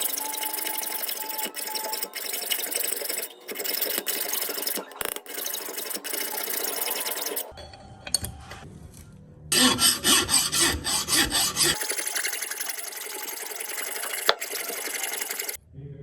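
Abrasive scraping of steel scissor blades being filed or sanded, in several short cut-together stretches. About ten seconds in comes a run of quicker strokes, roughly four a second.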